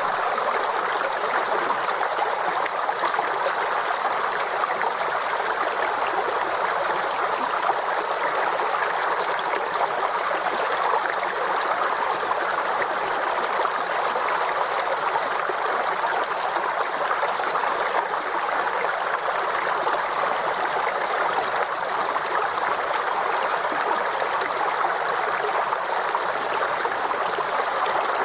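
Forest stream flowing over rocks: a steady, even rush and gurgle of running water.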